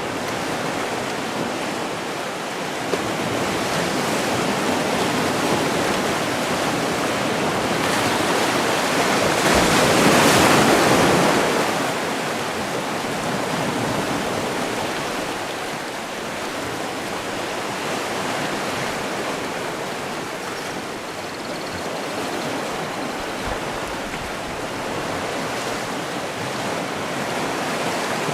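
Sea surf: waves washing in continuously, with one wave swelling louder about a third of the way through and then easing back.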